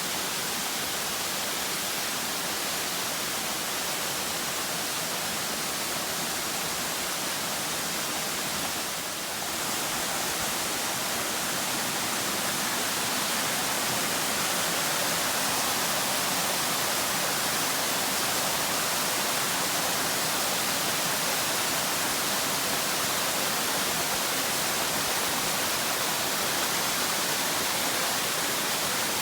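Waterfall rushing steadily, a dense hiss of falling water that grows a little louder about ten seconds in.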